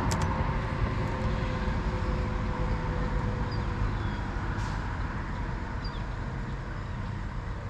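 Steady rumble of expressway traffic heard across the lake, with a few faint high chirps.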